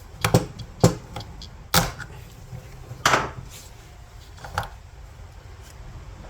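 About five separate sharp knocks and clicks of parts and hand tools being handled, as a fuel pump assembly is pressed together.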